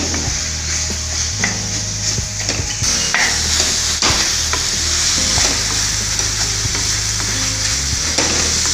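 Sliced onions, tomatoes and green chillies frying in oil in a kadai, sizzling steadily, while a metal spatula stirs and scrapes through them with scattered taps against the pan. This is the onion-tomato base being fried down with salt and chilli powder.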